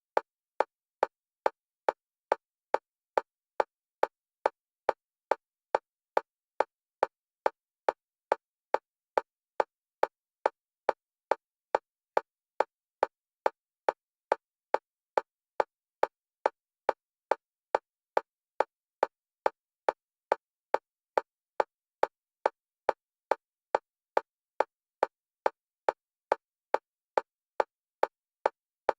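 Fast, even metronome clicks for EMDR bilateral stimulation, about two to three a second, alternating between the left and right stereo channels. Each click is short and sharp, with silence between clicks.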